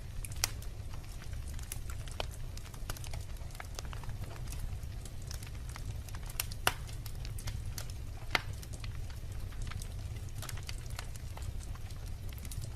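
Wood logs burning in a fireplace, crackling with irregular sharp pops over a steady low rumble of the flames; the loudest pops come about half a second in, near the middle and after about eight seconds.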